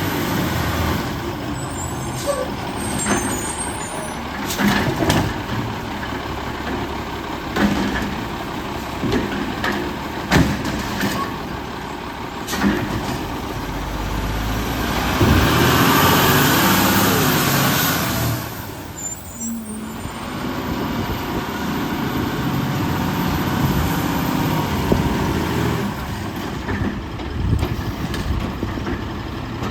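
Garbage truck at work: the Autocar WX64's engine running, with repeated metal clanks and knocks. Near the middle, a loud rush of noise lasts about four seconds while the engine pitch rises, then drops away.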